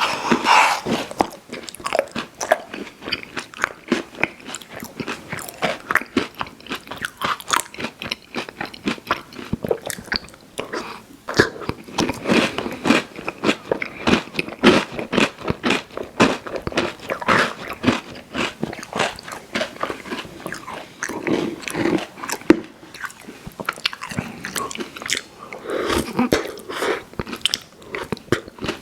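Close-miked eating of a crunchy pie dessert: continuous biting, crunching and chewing, a dense run of sharp crackles.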